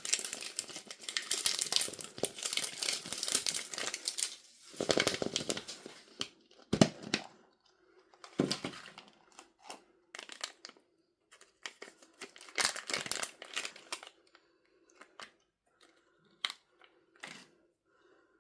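Packaging crinkling and tearing as it is unwrapped by hand: dense crinkling for the first four seconds or so, then separate rustles with a sharp knock about seven seconds in, thinning out to scattered light taps and clicks near the end.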